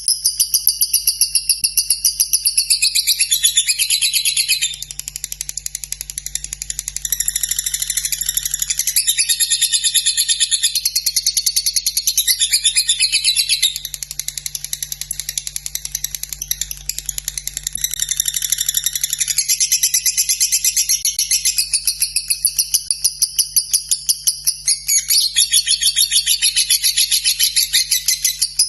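Lovebird singing a long, unbroken run of rapid, high-pitched ticking chatter that goes into a fast trilling cackle.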